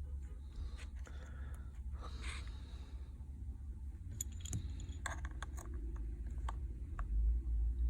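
Scattered light clicks and taps of a phone and small tools being handled, with a low handling rumble that swells near the end.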